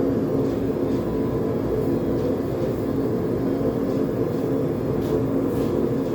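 Propane forge burner running with a steady roar and hum, with a few faint clicks now and then.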